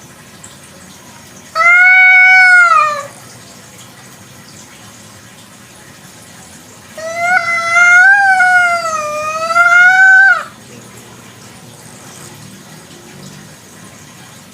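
A domestic village cat meowing twice: a short, arched meow about two seconds in, then a long meow of about three seconds that wavers up and down in pitch.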